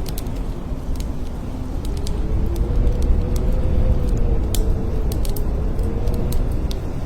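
Blizzard wind blowing in a deep, steady rumble, with a faint howling tone that drifts up and down in pitch. Light, scattered ticks sound over it.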